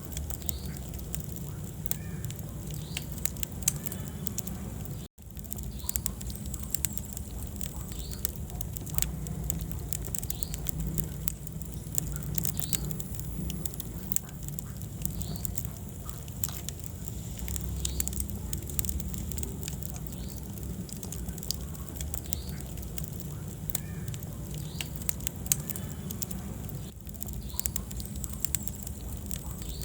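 Wood fire burning in a fireplace, crackling with frequent small pops over a low steady rumble of flame. The sound cuts out for an instant about five seconds in.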